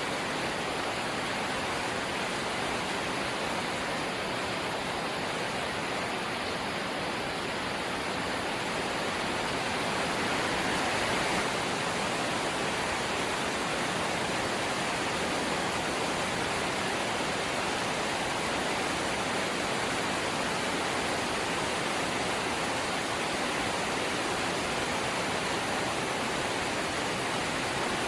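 Light rain falling steadily, an even hiss with no single drops standing out, swelling slightly about ten seconds in.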